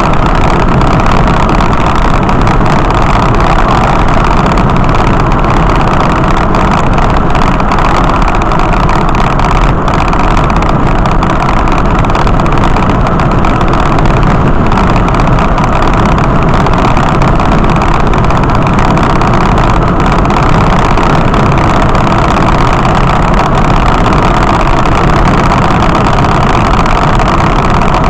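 Steady, loud engine and road noise of a vehicle under way, with no changes in pitch or level.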